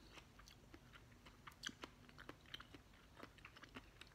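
Faint, close chewing of a mouthful of steak tartare, finely chopped raw beef: soft, irregular wet mouth clicks.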